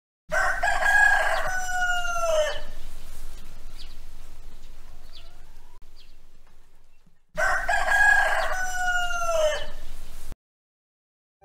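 A rooster crowing: the same crow twice, several seconds apart. Each is a long call of about two seconds that drops in pitch at the end. Some hiss trails off after the first crow, and the sound cuts off abruptly after the second.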